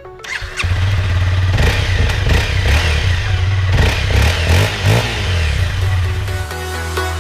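Honda CRF250L single-cylinder four-stroke dirt bike with a full FMF exhaust, running and revved up and down several times from about half a second in. Electronic music takes over near the end.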